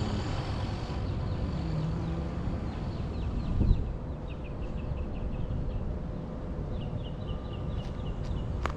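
A bird chirping in quick repeated series, about four notes a second, over steady low background noise, with a single thump a few seconds in.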